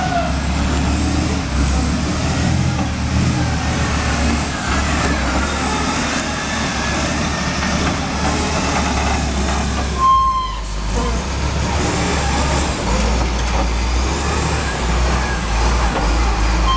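Heavy truck or loading-machine engine running steadily with a deep rumble while logs are loaded. A short steady high tone sounds about ten seconds in and again near the end.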